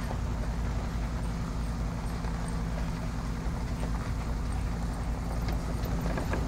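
A train running with a steady low rumble, with a few faint clicks near the end.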